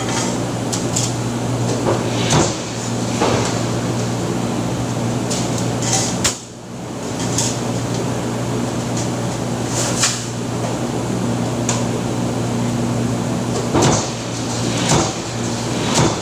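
Press machine in a factory: a steady motor hum with sharp clanks at irregular intervals of a second or two.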